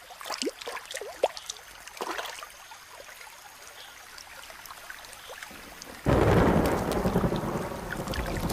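Scattered drips and light rain, then a heavy rainforest downpour with thunder breaks suddenly about six seconds in and keeps going loud.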